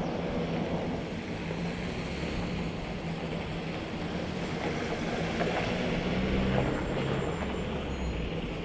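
Steady mechanical drone of running machinery: a continuous low hum over an even rushing noise, swelling slightly about six seconds in.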